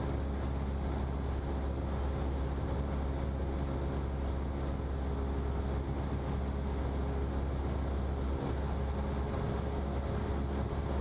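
Cessna's single piston engine and propeller droning steadily in flight, heard inside the cockpit: an unbroken low hum with a stack of steady engine tones and no change in power.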